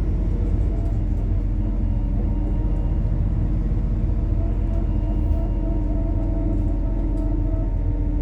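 MAZ-103 city bus with a methane-fuelled engine running steadily while driving, heard from inside the passenger cabin: a constant low rumble with a steady engine hum, and faint light rattles now and then.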